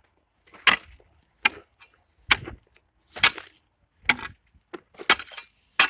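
Ice being chopped with a hand tool: seven sharp strikes in a steady rhythm, a little more than one a second, each with a brief gritty hiss of shattering ice.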